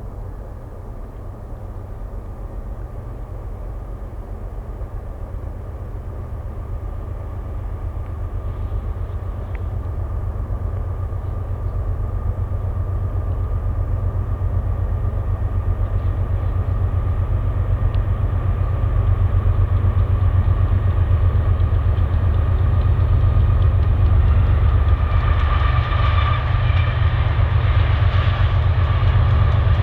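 Diesel locomotives of a freight train approaching, their deep engine rumble growing steadily louder as they draw near.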